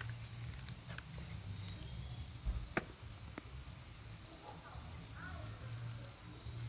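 Outdoor ambience: a steady high insect-like drone over a low rumble, with two sharp clicks close together about three seconds in.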